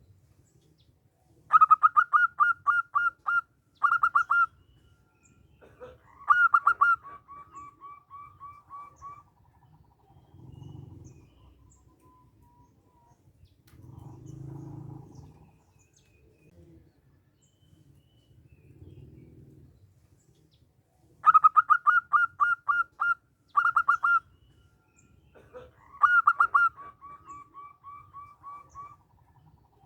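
Zebra dove (perkutut) singing two song bouts. Each bout is a quick run of loud staccato coos, then a second phrase that trails off in a string of softer, evenly spaced notes.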